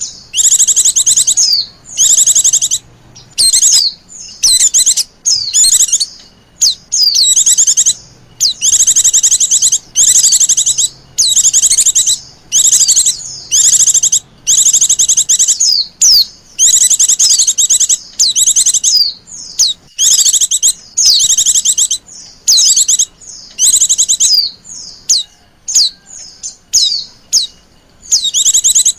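White-eye (pleci) song played as a lure call: loud, rapid high-pitched twittering in bursts of about a second, broken by brief pauses.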